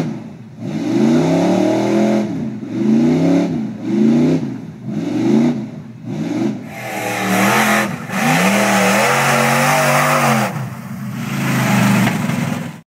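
Top truck's engine revving in about five short throttle blips, roughly one a second, then held high for a few seconds under a loud rushing noise, before a last rise and an abrupt cut.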